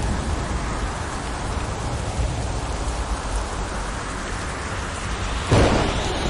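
Steady heavy rain falling, with a low rumble underneath. About five and a half seconds in, a sudden loud clap of thunder breaks in.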